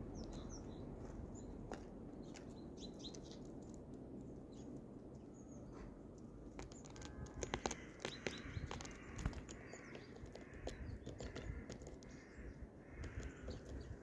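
Small birds at a grain feeder: brief high chirps early on, then a run of sharp clicks and taps about halfway through as birds land and peck at the grain, with softer repeated calls in the second half over a low steady background rumble.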